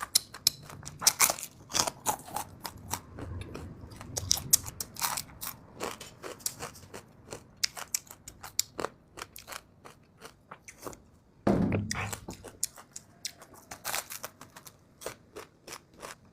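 Close-miked chewing and crunching of small mixed fish: a dense, irregular run of crisp crackles and bites, with one louder bite about two-thirds of the way through.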